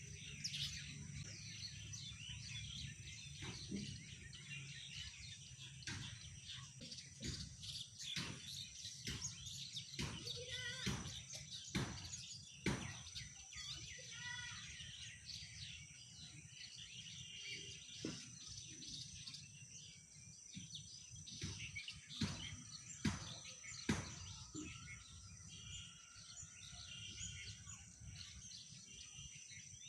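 Birds chirping in short, sharp calls over a steady low rumble, with a thin steady high-pitched tone running underneath.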